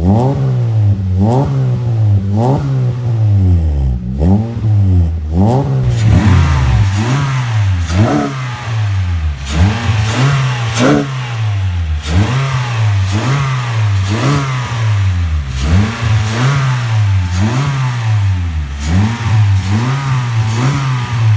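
2024 Honda BR-V's four-cylinder engine revved in repeated quick blips through a full aftermarket exhaust system, each rev rising and falling about once a second. From about six seconds in the exhaust note turns brighter and raspier.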